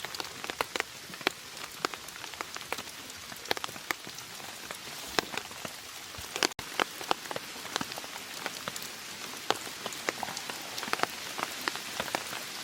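Steady rain falling, with many sharp drop hits ticking through an even hiss. The sound cuts out for an instant about halfway through.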